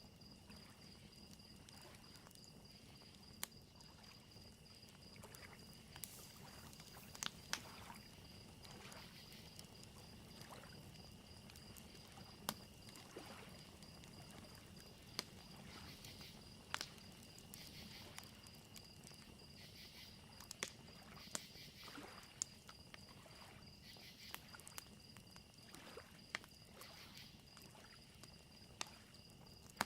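Faint fire crackling, with sharp pops every second or so, over steady cricket chirping and a low wash of lake waves lapping on a shore.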